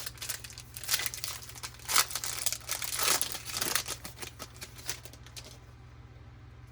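Wrapper of a baseball card pack being torn open and crinkled, crackling for about five seconds before it stops.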